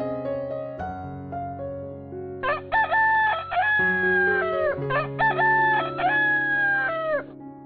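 A rooster crowing twice, each crow about two seconds long with a held middle and a falling end, over soft background piano music.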